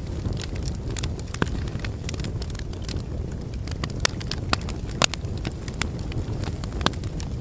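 Wood fire burning in a fireplace: a steady low rumble of the flames with irregular sharp crackles and pops from the logs, the loudest about a second and a half in and about five seconds in.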